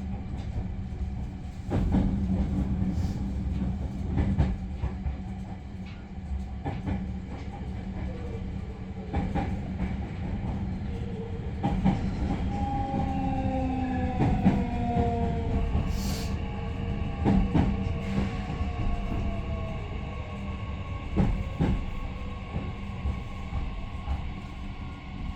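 Running sound inside a JR Central 315 series electric train car: a steady rumble of wheels on rail with repeated rail-joint clicks. About halfway through, several whining tones from the drive glide downward in pitch as the train slows.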